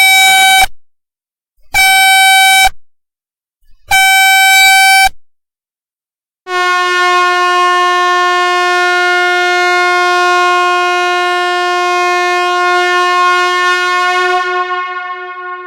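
Air horn sounding three short, high-pitched blasts about a second each, then after a short pause one long, lower-pitched blast of about eight seconds that fades out near the end.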